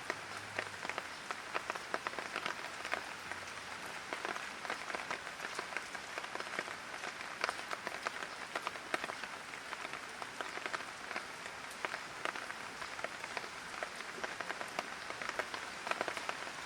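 Light rain falling, a steady patter of many small drop impacts.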